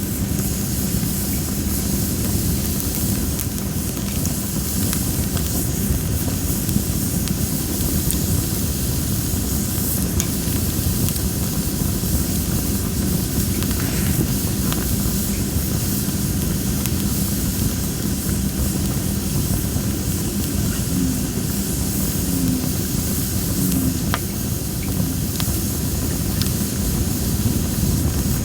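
Campfire of well-dried masaki (Japanese spindle) wood burning and hissing, with scattered small crackles under a steady low rumble.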